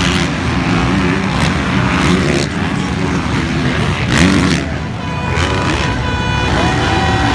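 Motocross bikes' engines running loud and continuously, revving up and down during a race. From about five seconds in, a few steady tones sound over them.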